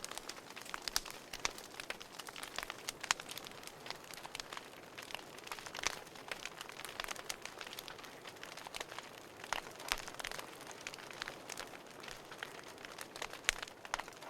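Burning wood crackling and popping irregularly over a soft steady hiss of the fire.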